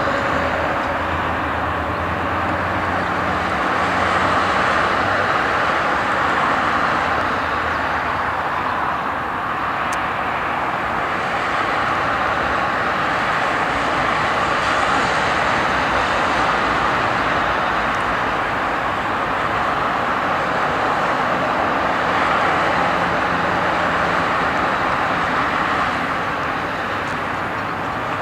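The jet engines of an Airbus A340-600 running, a steady loud noise that swells and eases a little.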